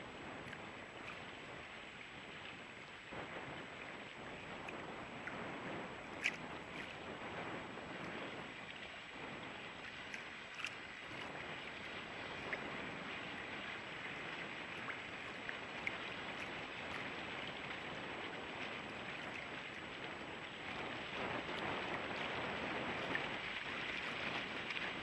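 Steady wash of water and wind, swelling and easing gently, with a few sharp clicks scattered through it, the clearest about six seconds in.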